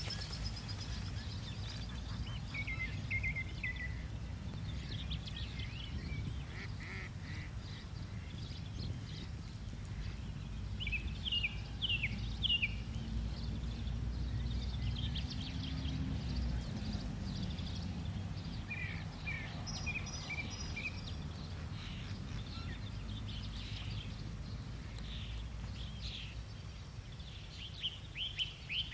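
Bird calls: clusters of short, high, downward-sweeping chirps every few seconds, the loudest about midway and again near the end, over a steady low rumble.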